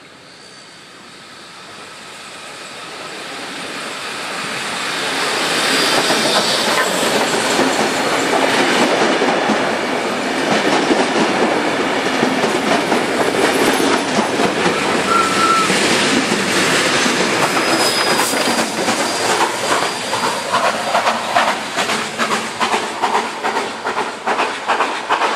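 Steam-hauled heritage passenger train, with locomotives 3526 and 3265, passing close by. The sound builds over about six seconds as the train approaches, then stays loud as the carriages roll past, with a rhythmic clatter of wheels that grows more distinct near the end.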